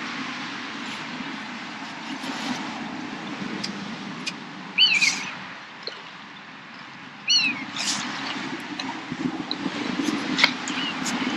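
A bird gives two short, arched calls about two and a half seconds apart over a steady low rumble, with a few light clicks near the end.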